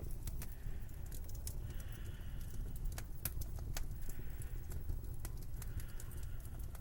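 Steady low wind rumble, with scattered sharp clicks and crackles over it and a faint whistle-like tone about a second long that comes back every couple of seconds.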